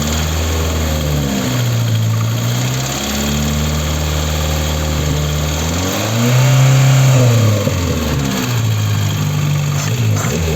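VAZ-21083 1.5-litre four-cylinder petrol engine running warm, its speed rising and falling several times, most strongly about six seconds in, with a metallic ticking clink. The owner takes the clink for a worn piston pin in cylinder 1, which has low compression (10 against 13 atm), though valve clearances have already been adjusted twice.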